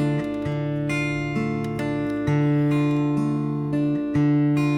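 Acoustic guitar playing an instrumental passage between sung lines, with sustained ringing chords changing every second or so.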